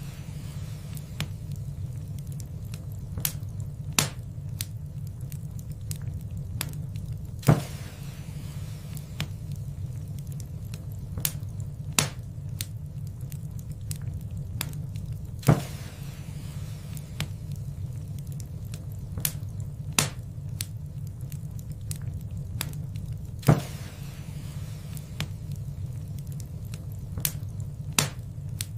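Wood fire in a fireplace crackling: a steady low rumble of the burning fire, with frequent sharp pops and snaps and a louder pop every few seconds.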